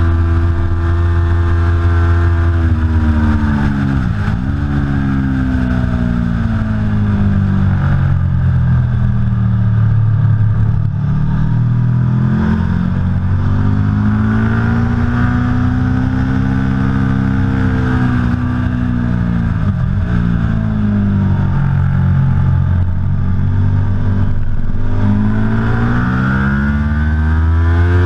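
Aprilia Tuono V4 Factory's V4 engine running hard on track. Its note falls to a sharp dip about four seconds in and again about twenty seconds in, and climbs steadily between and after each dip.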